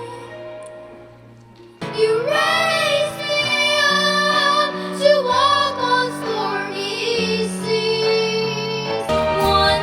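A song fades out, and about two seconds in another begins: a high voice sings a gliding melody over sustained instrumental accompaniment, with a further change in the music near the end.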